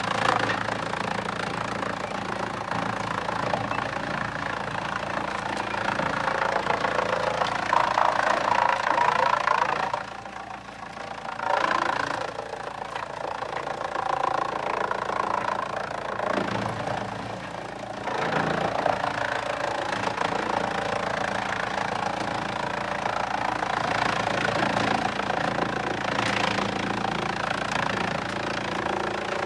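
Engine-driven sawmill machinery running steadily with a continuous drone and a rough mid-range clatter. It eases off briefly about ten seconds in, then picks up again.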